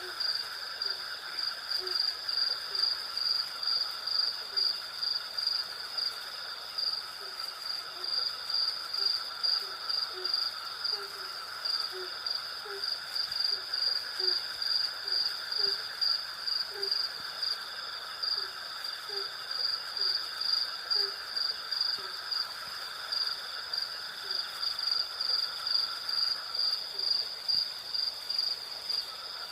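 Night chorus of crickets and other insects: a high, pulsing chirp at about two pulses a second over steadier lower insect trills. During roughly the first half a series of short, low hoot-like calls repeats about once a second, then stops.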